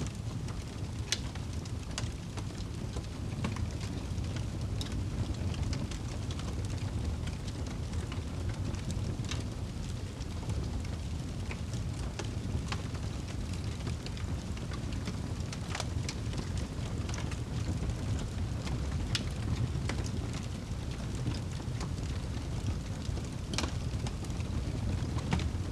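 Wood fire crackling, with scattered sharp pops every second or so over a steady low rumble.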